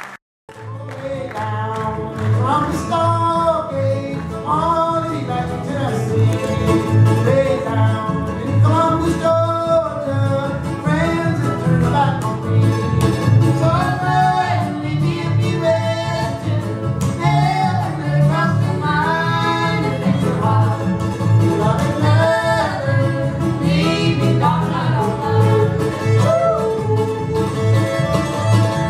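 Old-time string band playing live: fiddle and mandolin over guitar and upright bass, with a steady plucked bass beat.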